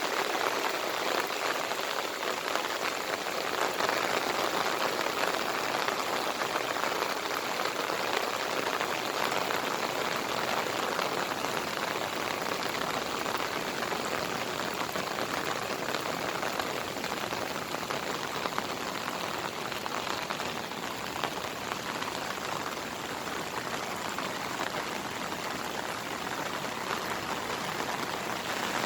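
Steady heavy monsoon rain, a dense patter of drops hitting surfaces with no letup.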